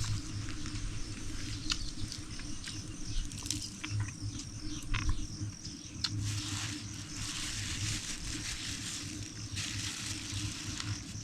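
Rustling and crunching in dry leaf litter and brush, with scattered sharp clicks and snaps, louder in two stretches past the middle and near the end.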